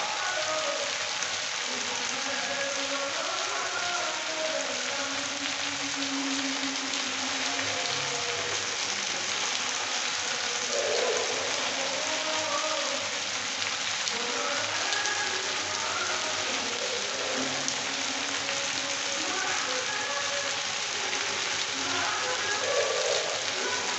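Okra, onion and tomato sizzling in oil in a steel kadhai: a steady frying hiss.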